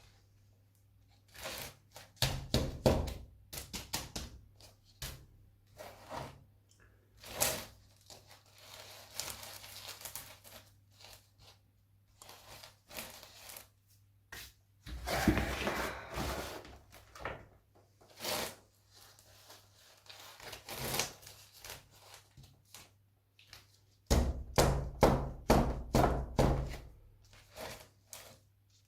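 Irregular knocks, thunks and rustling from handling a flower pot and potting material while repotting an orchid, with a denser rustling or scraping stretch about halfway through and a quick run of knocks near the end.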